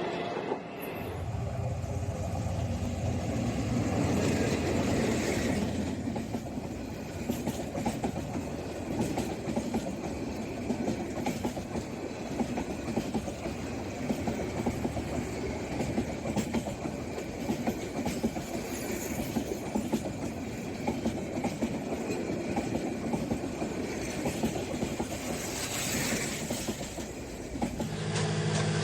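A train running past: a dense, steady rumble with rapid clattering of wheels on the rails, and a low steady hum in the first few seconds. Near the end it cuts off abruptly into a different steady hum.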